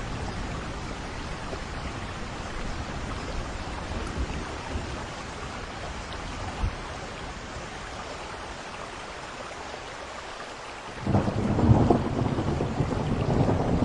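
Steady rain falling during a thunderstorm, with a low rolling thunder rumble. About eleven seconds in, a loud clap of thunder breaks in and keeps rumbling.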